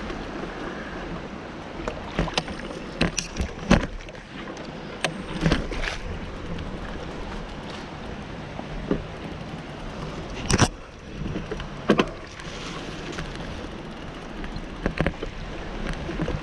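Bicycle being ridden over a rough trail: a steady rolling and wind noise with irregular knocks and rattles from the bike going over bumps, the loudest about four, ten and twelve seconds in.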